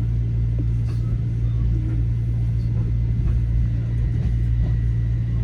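Metro-North M7A electric multiple unit heard from inside the car while running: a steady low rumble with a constant low hum. A faint high steady whine comes in during the second half.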